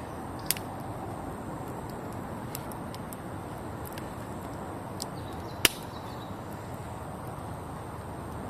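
Wood campfire burning with a steady low rush and two sharp pops, a small one right at the start and a louder one about five and a half seconds in.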